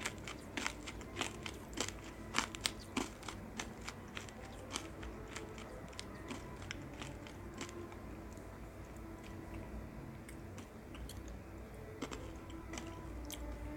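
Close-up chewing and biting of sweets: crisp crunches come thick and fast for the first few seconds, then thin out into softer, slower chewing.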